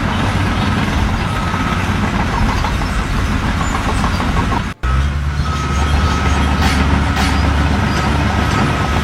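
Heavy vehicle engine running steadily. It breaks off suddenly just before halfway, then a deeper engine rumble continues with a thin steady whine above it.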